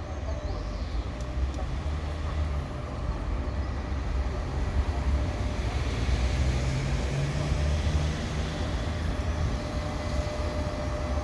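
EP1M electric locomotive hauling a passenger train away from a station: a steady low rumble with a constant hum on top, the rumble rising a little partway through.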